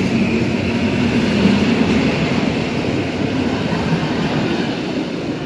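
A train running through the station, its rumble slowly fading as it moves away.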